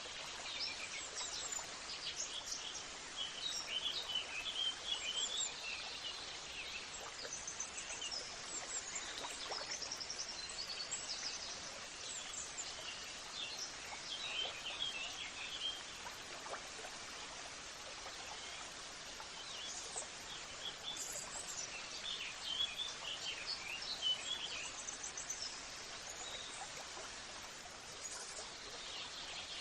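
Birds chirping and singing in bursts of quick high notes over a steady background hiss, busiest in the first few seconds, around the middle and again after about twenty seconds.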